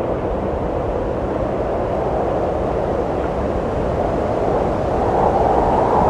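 Steady wind blowing, a dense rushing noise that swells slightly near the end.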